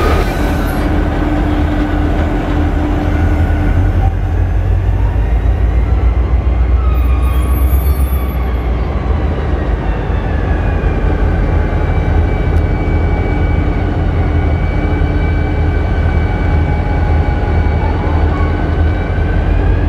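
GM-EMD diesel engine of a diesel-electric locomotive running loudly under throttle, with a heavy low rumble; its pitch dips and rises again near the end as the engine speed changes.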